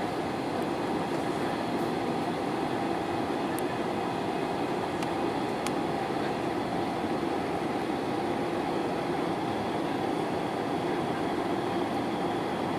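Steady cabin noise of an Airbus A320-214 heard from inside the cabin: a constant rumble and hiss from its CFM56 engines and airflow, with no change in pitch or level.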